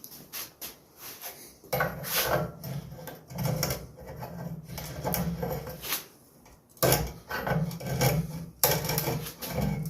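Rusted exhaust pipe joint on a 1976 Wizard garden tiller grating and creaking as it is forced round, in two long spells of effort, the first about two seconds in and the second about seven seconds in, with small knocks between. It sounds very rusty: the joint is seized with rust despite the penetrating oil.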